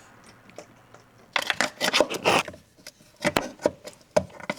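Plastic cap of a Marvel Mystery Oil bottle being twisted and pried at by hand. It makes a run of scraping, crackling rubs with scattered sharp clicks, stubborn to open.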